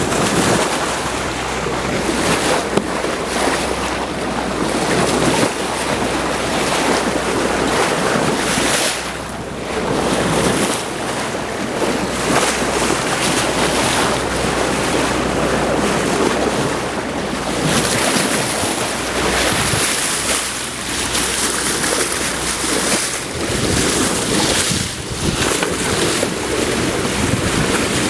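Wind buffeting the microphone and sea water rushing and splashing past a sailboat under way, rising and falling in gusts. A low steady hum runs underneath and fades out about two-thirds of the way through.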